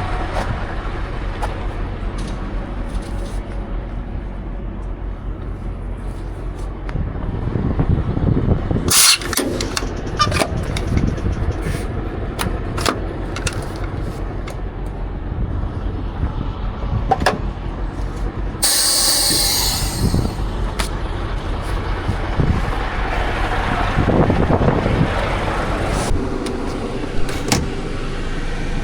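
Scania R500 truck engine running with a steady low rumble, with scattered sharp clicks and knocks and a short burst of hiss about two-thirds of the way through.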